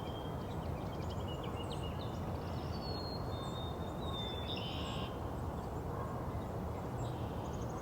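Spring birdsong, with thin high whistled notes from several birds, including a black-capped chickadee's two-note whistle, one note stepping down to a lower one. A steady low rumble lies underneath.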